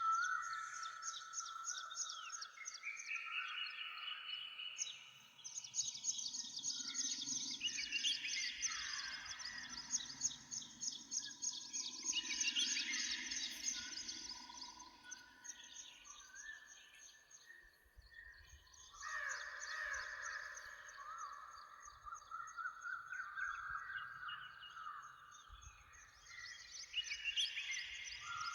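Several songbirds singing at once in a morning chorus: rapid, overlapping high trills and chirps, with a short thinner spell about two-thirds of the way through.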